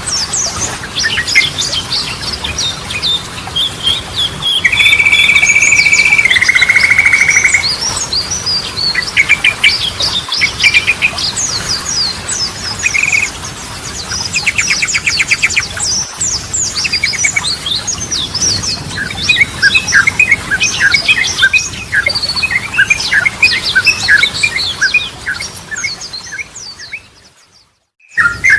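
Yellow-vented bulbul (trucukan) singing a long run of quick chirps and whistled phrases. About five seconds in there is a steady held whistle followed by a lower buzzy note, and a fast trill comes around fifteen seconds. The song fades out near the end and another song starts.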